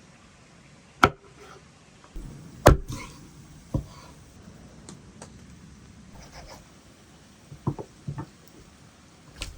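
About six sharp knocks on wood at irregular intervals during food preparation, the loudest about a third of the way in.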